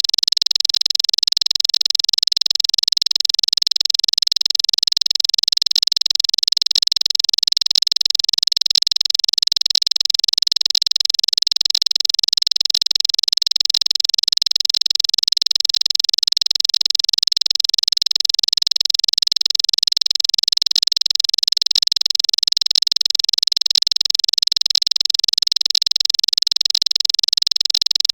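Bar-winged prinia (ciblek) song played as a lure track: a dense, unbroken high-pitched chattering trill that stays the same throughout.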